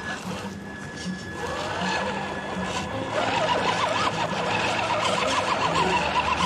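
Small electric motor of a radio-controlled crawler truck whining, its pitch rising and falling quickly as the throttle is worked, starting about three seconds in.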